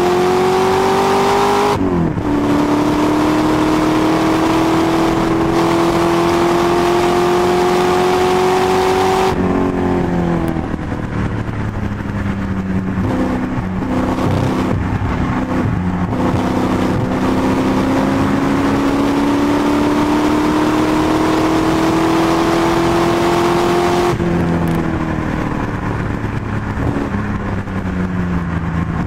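330 bhp Rover V8 engine of an MGB racing car, heard from inside the car, pulling hard with rising revs, shifting up about two seconds in, then revving up again. Around nine seconds in the revs fall and step down as the driver lifts off and changes down, then build steadily once more until the car lifts and changes down again near the end.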